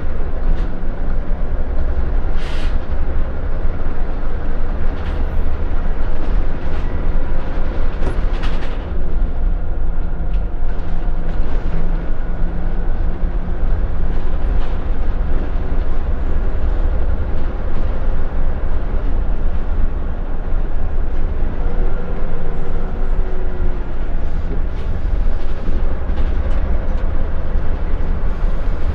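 Scania L94UB single-deck bus heard from inside the saloon while it is moving: a steady low diesel engine and road rumble, with short rattles and knocks from the body and fittings here and there.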